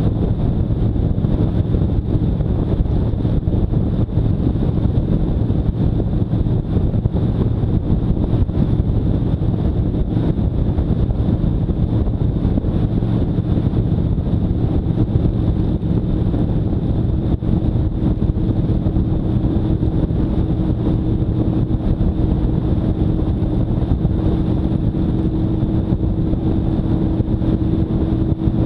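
Motorcycle engine running steadily under way, with wind noise on the microphone; about halfway through, a steady higher tone joins it and holds.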